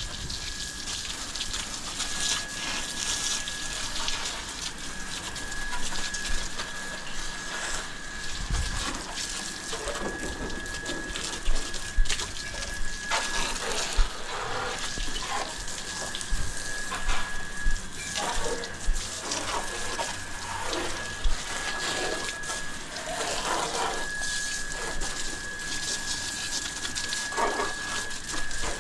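Water spraying and splashing on a motorcycle being washed, with irregular splashes and knocks and a steady high whine.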